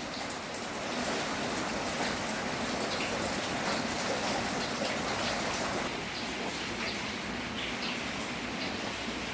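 Steady rain falling, an even hiss, with faint short high sounds scattered through it; it eases slightly about six seconds in.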